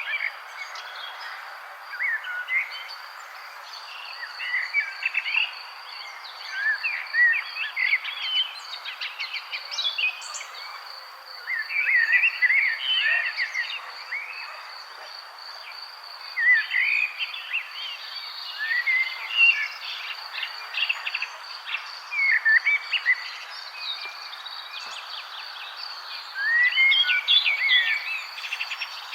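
Songbirds singing in short, overlapping chirping phrases every second or two, over a steady, high-pitched pulsing trill.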